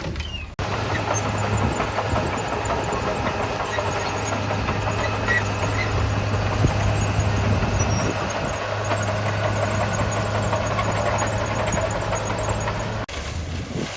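Heavy diesel engine of a construction machine running steadily with a low drone. It cuts in abruptly about half a second in and cuts off abruptly near the end.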